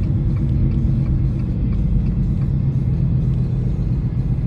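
Road noise and engine hum inside a moving car: a steady low rumble with a constant drone.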